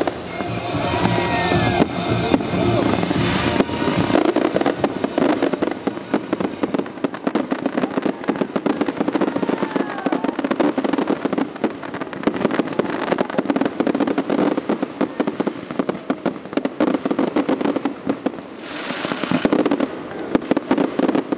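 Fireworks display: a dense, rapid crackle of firework bursts, with whistling glides in the first few seconds and a hissing rush near the end.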